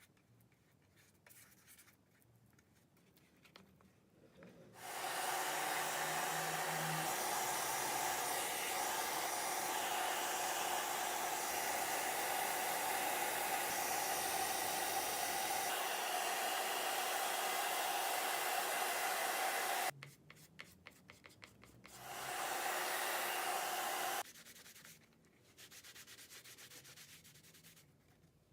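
Hair dryer running steadily for about fifteen seconds, then switched on again for about two seconds, blowing heat to melt a beeswax coating into leather. Faint handling clicks and rubbing sit in the quieter stretches.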